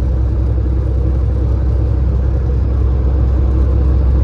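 Semi-truck engine and road noise heard from inside the cab, a steady low drone while driving at an even speed.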